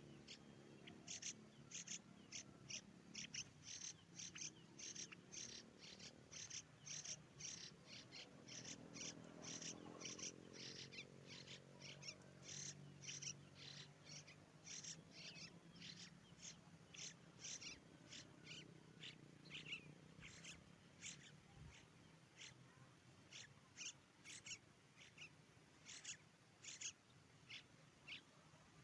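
Faint bird calls: a long run of short, high chirps repeated about twice a second.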